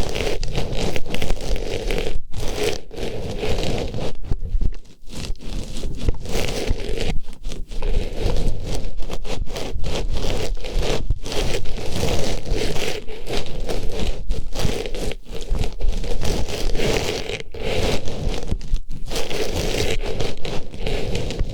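Artificial flower pushed into a binaural microphone's ear and rubbed around, giving close, continuous rustling and scraping with crackles, broken by a few brief pauses.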